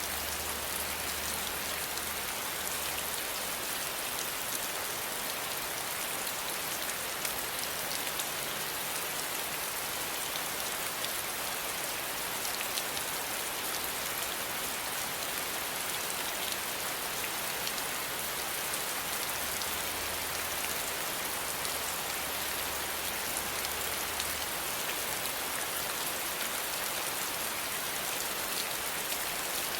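Steady rain falling: an even hiss of rain with fine, scattered drop ticks, holding level throughout.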